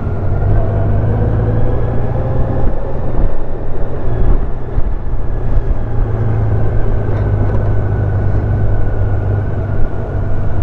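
Honda Gold Wing motorcycle engine running steadily while riding along a road, with a constant low hum, engine tones that drift slowly in pitch, and a haze of wind and road noise.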